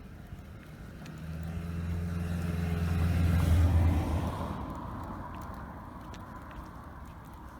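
A motor vehicle passing by: its engine hum and tyre noise swell to loudest about three and a half seconds in, then fade away.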